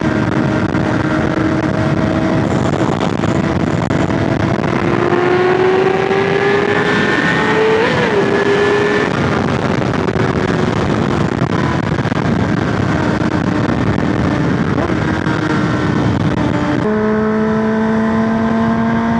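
Sportbike engine, the rider's Yamaha R6 inline-four, running at road speed under a heavy rush of wind. The revs climb for a few seconds midway, then ease back. Near the end the engine note drops abruptly to a lower steady drone.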